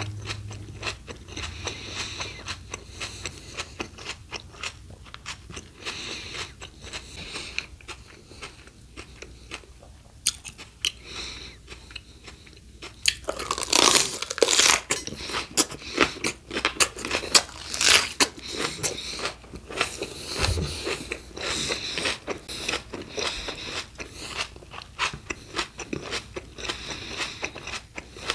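Close-miked eating of crunchy fruit and vegetables: repeated bites and chewing crunches, with a louder, denser run of crunching from about halfway through for several seconds.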